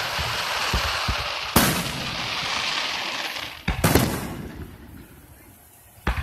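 Aerial fireworks shells bursting: three sharp booms about two seconds apart, each followed by a long fading tail of rumble and hiss.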